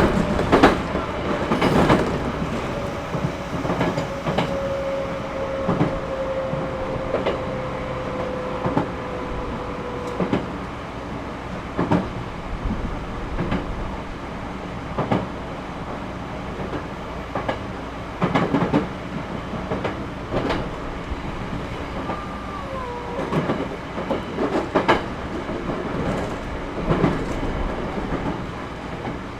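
Cabin running noise of a Series 211-5000 electric train on the move: a steady rumble broken by irregular clicks and knocks. A whine slowly falls in pitch over the first ten seconds, and a short higher tone glides downward a little past twenty seconds.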